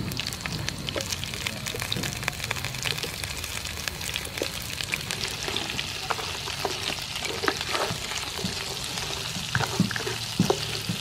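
Whole river prawns sizzling and crackling in hot oil with chopped garlic in a frying pan, stirred with a spatula that knocks against the pan a few times near the end.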